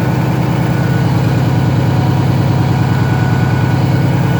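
1995 Mack truck's diesel engine idling steadily with an even, fast pulse, still cold just after a cold start in sub-zero weather.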